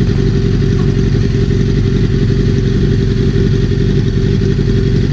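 Motorcycle engine idling steadily with its exhaust straight-piped (slip-on muffler removed), giving a loud, even rumble.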